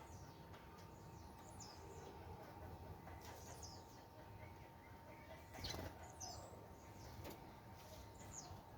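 Small birds giving short, high chirps at a bird feeder, faint and scattered, with a couple of light knocks about two-thirds of the way through.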